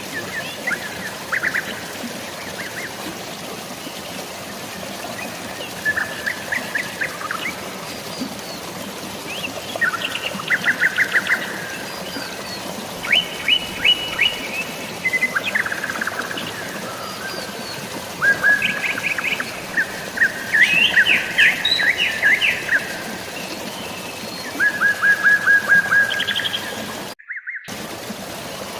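Birds chirping in quick runs of short, repeated notes, one run after another, over a steady hiss of rain and running water. Near the end the sound cuts out completely for a split second.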